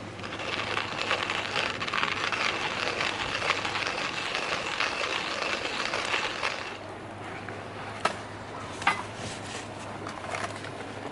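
Meat sizzling on a hot iron griddle: a dense crackling hiss that stops abruptly about two-thirds of the way through, followed by a few sharp clicks.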